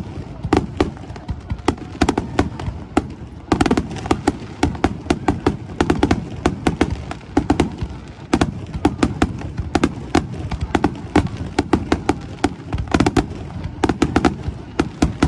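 Fireworks display going off in a rapid, unbroken volley: several sharp bangs and crackles a second.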